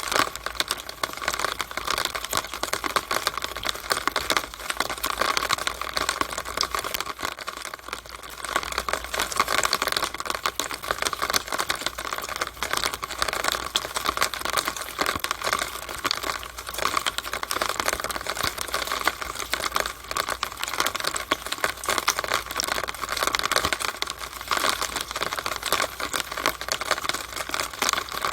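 Rainwater running down a drainpipe, a steady, dense, irregular patter of drips and splashes.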